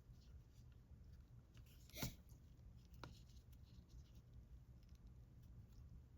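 Near silence with faint soft rustling of yarn being worked with a crochet hook, one brief sharp click about two seconds in and a fainter one a second later.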